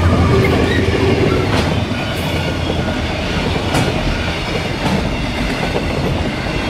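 Aurizon container freight train passing close at speed: the locomotive's deep rumble at first, easing about two seconds in to the rattle and clickety-clack of container wagons, with sharp wheel clicks every second or so. The level crossing bell rings in steady repeated dings throughout.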